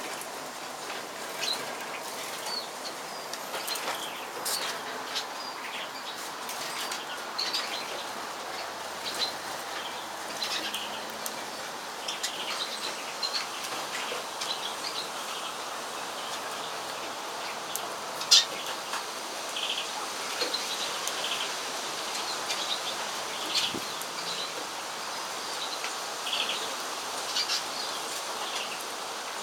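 Small captive birds, such as a keeper's bred siskins and their young, chirping with short calls scattered throughout over a steady background hiss. A single sharp click about two-thirds of the way through is the loudest sound.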